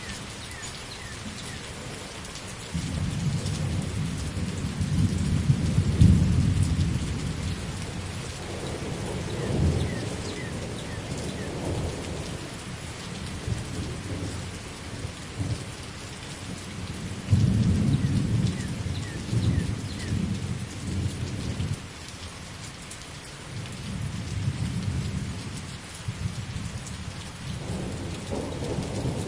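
Steady heavy rain with several rolls of thunder: a loud rumble about three seconds in that peaks a few seconds later, another at about the middle, and two weaker ones near the end.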